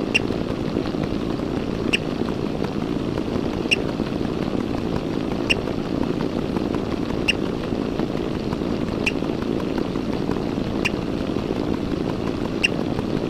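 A steady low rumbling noise, with a short sharp tick about every two seconds.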